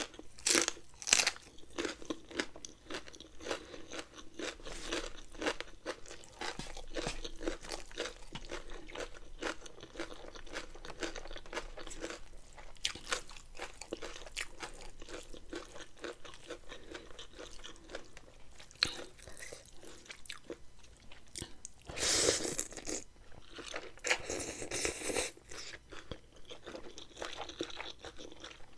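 Chewing and crunching of a spicy rice-noodle salad with shrimp and raw vegetables, a steady run of short crunchy bites, louder for a few seconds near the end.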